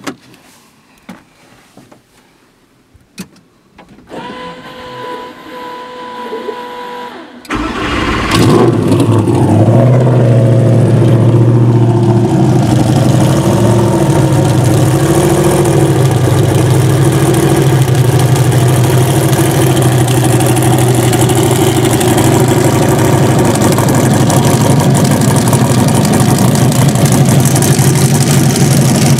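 A few sharp clicks, then a steady whine for about three seconds, before the SL-C's 1500 hp twin-turbo Katech race engine fires about seven and a half seconds in with a sudden loud catch. It then settles into a steady, loud idle.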